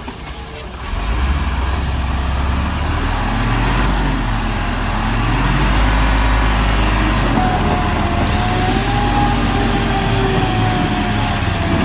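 Heavy vehicle's engine pulling under load, getting louder about a second in and staying strong. A short hiss comes near the start and again about eight seconds in, and a steady high whine runs over the last few seconds.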